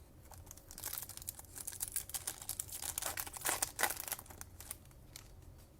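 Trading-card pack wrapper crinkling and tearing as a pack is opened, a quick run of crackles and rustles that dies away near the end.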